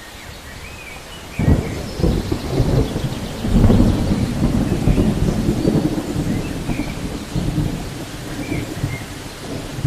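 Steady rain falling, with a roll of thunder breaking in suddenly about a second and a half in and rumbling on.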